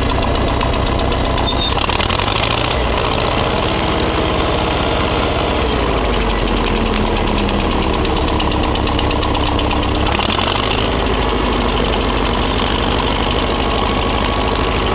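1956 Farmall Cub tractor's four-cylinder engine running steadily near idle. Its speed shifts about two to three seconds in and again about ten seconds in.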